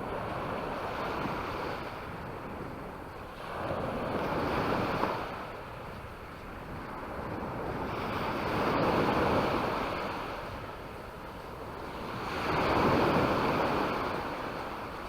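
Mediterranean waves breaking on a beach, the surf swelling and fading four times, about every four seconds.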